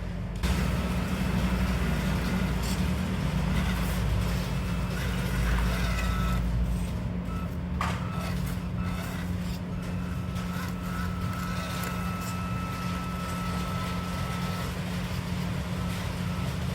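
A vehicle's motor running steadily, with a low hum and a thin high whine over it. It grows louder about half a second in.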